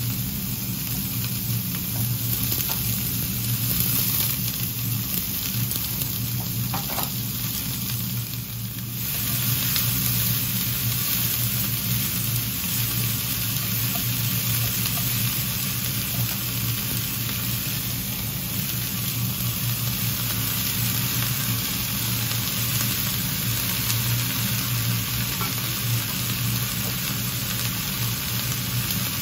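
Shredded cabbage and carrot sizzling steadily in a hot nonstick frying pan on a gas stove, stirred with wooden chopsticks, over a steady low hum.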